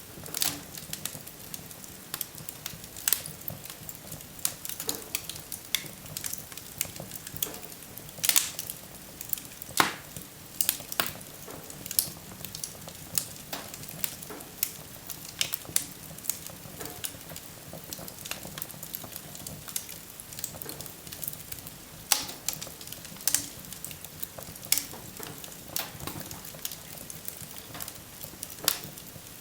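Wood fire crackling and popping: irregular sharp snaps over a soft steady hiss, with a few louder pops about 8, 10 and 22 seconds in.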